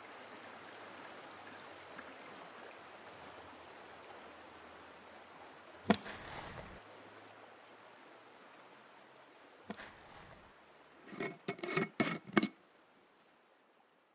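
Faint hiss with a single sharp click about six seconds in, then a quick run of clicks and scrapes near the end as a screw-top jar lid is twisted off.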